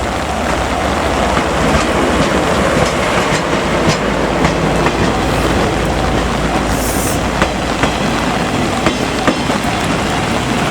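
A train running past close by, its wheels clicking over rail joints under a steady low rumble, with heavy rain falling.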